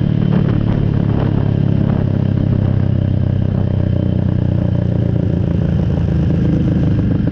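ATV engine running steadily while riding along at an even pace, with some rattling in the first second or so.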